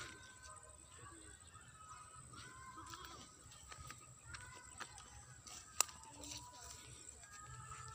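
Faint open-air ambience: scattered bird chirps over a steady high-pitched hum, with one sharp click a little before six seconds in.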